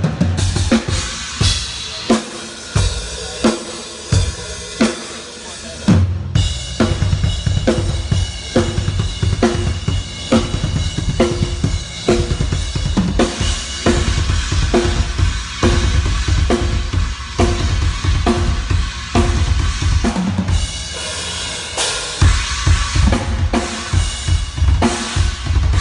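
A drum kit played in a steady groove during a sound check: bass drum and snare with cymbals. It breaks off for a moment about six seconds in, then goes on.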